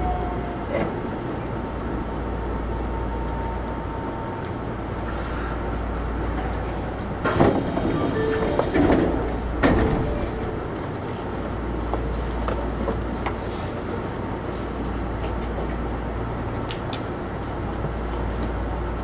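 Osaka Metro 66 series electric train running at reduced speed, heard on board: a steady low rumble of wheels on rail. A falling motor whine fades out at the very start, and a burst of clattering knocks comes about halfway through.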